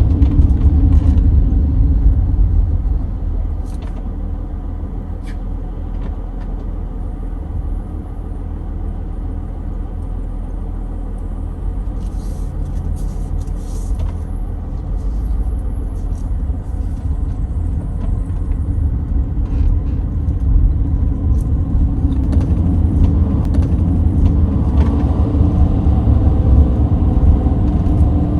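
Motorhome driving over a rough mountain road: a steady low engine and road rumble, with scattered light rattles and clicks, growing louder in the last third.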